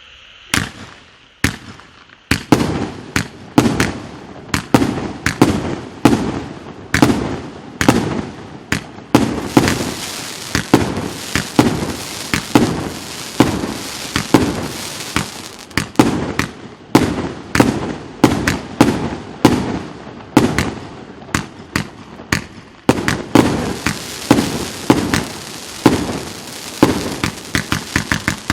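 A 49-shot fireworks cake with 1.2-inch tubes firing its shots one after another: two single cracks in the first two seconds, then a steady run of sharp launch-and-burst bangs, about two a second.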